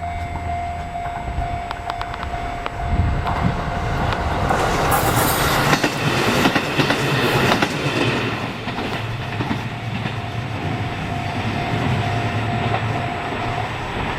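A train passes over a Japanese level crossing, its wheels clattering over the rails; the passing is loudest about five to eight seconds in. The crossing's warning signal sounds as a steady tone and cuts off suddenly near the end, as the crossing clears.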